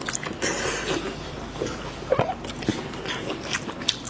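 Close-up eating sounds of seafood being eaten: wet chewing and slurping, broken by irregular short clicks and cracks.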